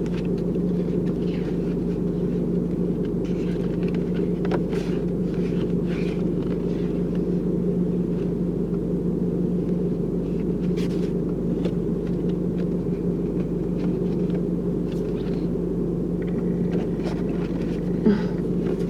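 Steady low rumble with a constant hum, unchanging throughout, with a few faint light clicks over it.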